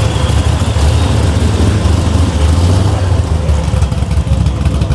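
A big car engine running at low revs close by, loud and steady, with voices faintly in the background.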